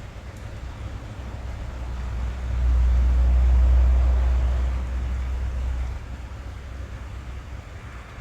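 Rain drumming on a car's roof and running down the glass, heard from inside the cabin as a steady patter. About two and a half seconds in, a deep low rumble swells up for a few seconds, becoming the loudest sound, then fades back.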